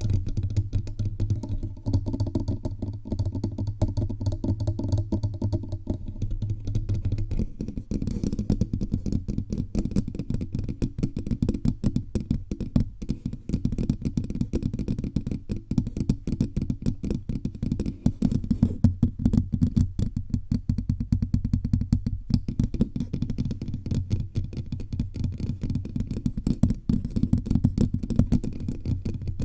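Fingertips tapping rapidly and continuously all over a bare microphone, each tap a dull, bassy knock picked up directly by the mic.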